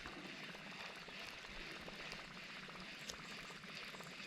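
Faint water sounds with many small, scattered ticks and a slightly sharper tick about three seconds in.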